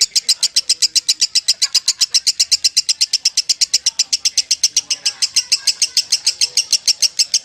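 Lovebird giving its long 'ngekek' chatter: an unbroken, rapid run of sharp, high notes at about ten a second, held steady without a pause.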